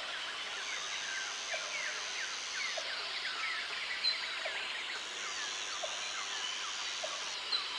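A dense chorus of many small birds chirping, with short overlapping downswept calls throughout. A thin high steady buzz comes in twice and stops twice.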